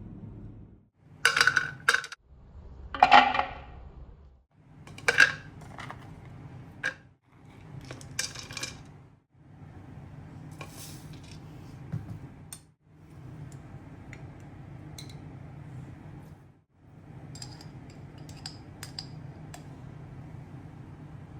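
Dishes and cutlery clinking, a few sharp clinks and one longer ringing one, in a string of short clips with brief silences between them, over a steady low hum.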